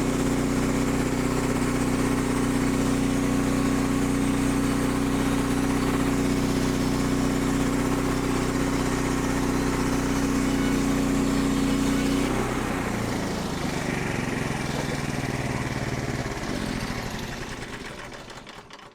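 Small petrol engine of a portable band sawmill running at a steady high speed. About twelve seconds in, it drops in pitch and winds down to a stop.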